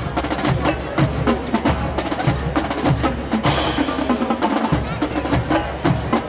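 Marching band drum line playing a quick cadence of snare and bass drum strokes, with a cymbal crash about three and a half seconds in.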